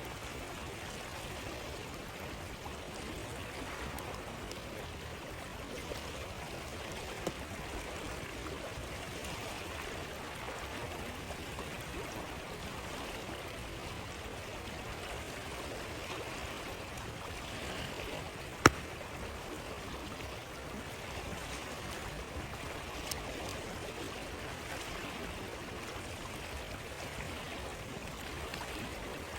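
River water flowing steadily, with a few sharp pops from a crackling wood campfire. The loudest pop comes about two-thirds of the way through.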